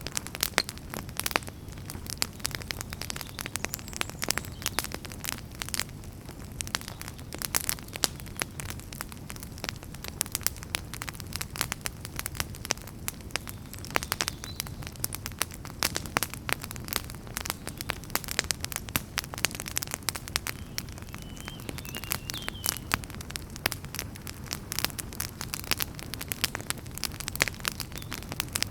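Wood fire burning in a fireplace, with dense, irregular crackles and pops over a low, steady rumble of the flames.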